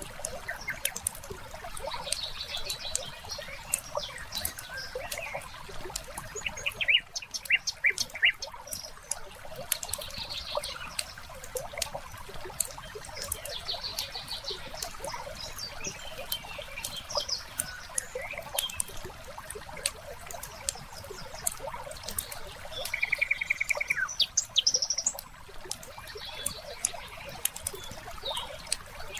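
Wood fire crackling with scattered sharp pops, layered with birds chirping in short phrases and a quick trill near the end, over a steady trickle of water.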